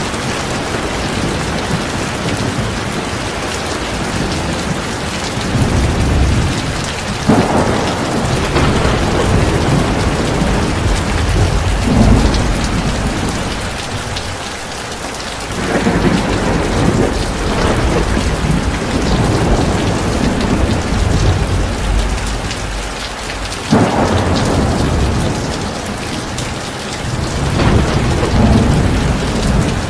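Heavy rain pouring down steadily, with thunder rumbling and rolling in several times, some peals starting with a sharp crack.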